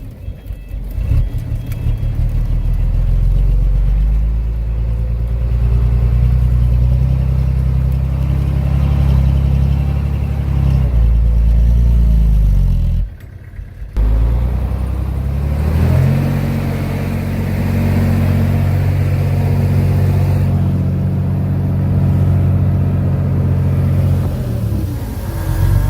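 Heavy diesel engine of earthmoving machinery running hard, its pitch rising and falling with load. The sound breaks off for about a second halfway through, then carries on at a steady note.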